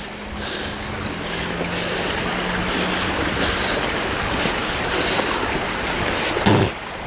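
River swollen with floodwater, flowing fast with a steady hiss of moving water.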